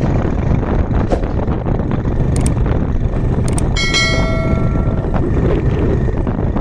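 Wind buffeting the microphone with a steady low rumble, and a little past the middle a sudden ringing tone that fades over about a second and a half.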